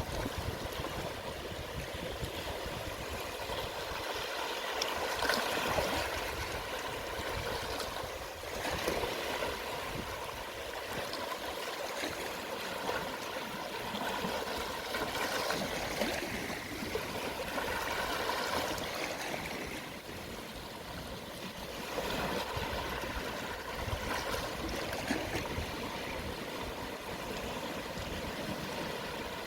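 Small, gentle sea waves washing onto the shore at low tide. A steady wash of water swells and eases every few seconds.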